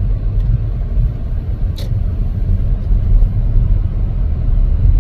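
Car driving, a steady low road-and-engine rumble, with a single short click about two seconds in.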